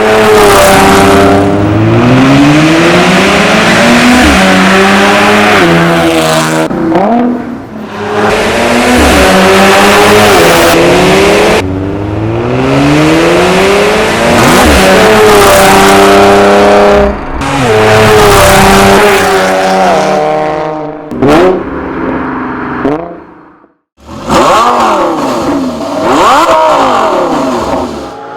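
Audi S5's supercharged 3.0 V6 TFSI engine through an Armytrix stainless steel valved exhaust, accelerating hard over several pulls: the pitch climbs, drops sharply at each upshift and climbs again. The sound is loud, with a brief break about three-quarters of the way through.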